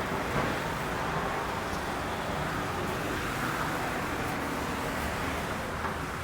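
Steady outdoor background roar, like distant road traffic, holding at an even level throughout.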